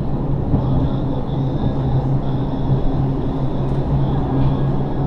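Bavarian Zugspitze Railway electric railcar running steadily, heard in the driver's cab: a constant low hum over the even rumble of wheels on rails.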